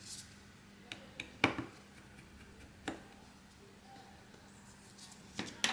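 A handful of small sharp clicks and taps from hand tools working on a smartphone's parts during a repair, the loudest about a second and a half in and a quick cluster near the end, over a faint steady hum.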